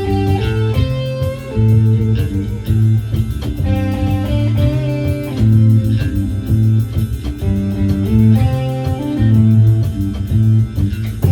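Band playing an instrumental passage with electric guitar and bass guitar, the notes changing throughout.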